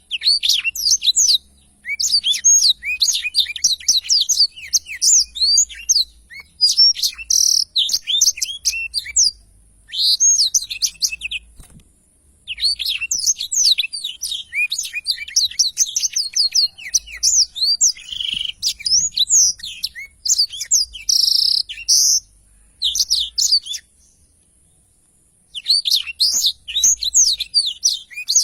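Blackthroat (black-throated canary) singing its long rolling song: rapid strings of high chirps and trills in long phrases, the longest about ten seconds, broken by short pauses, with a longer break near the end before it starts again.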